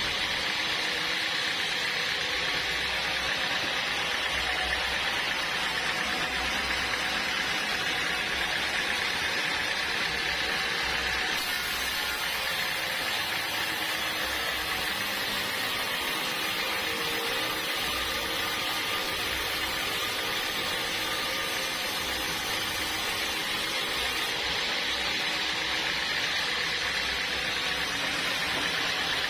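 Sawmill machinery running steadily, a continuous even hiss over a low hum with no breaks.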